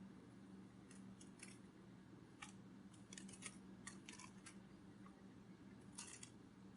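Near silence: a faint steady hum with scattered soft short clicks, clustered from about three to four and a half seconds in and again about six seconds in.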